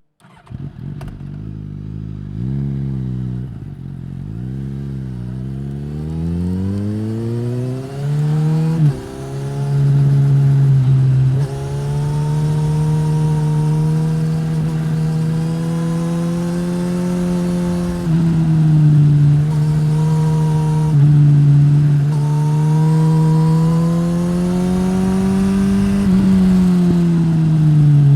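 2015 Suzuki GSX-S1000's inline-four through a Yoshimura R-11 slip-on exhaust, accelerating up through the gears, the pitch rising and dropping back at each shift. It then runs at steadier, higher revs with a few more shifts, and the revs fall away near the end.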